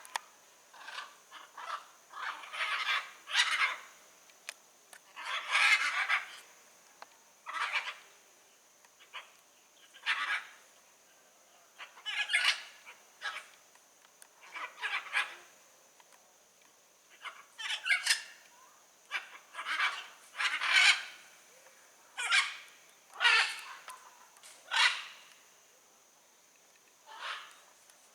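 Blue-and-yellow macaws calling: harsh, raspy squawks repeated every second or two at irregular spacing, some in quick pairs. A steady high thin whine runs underneath.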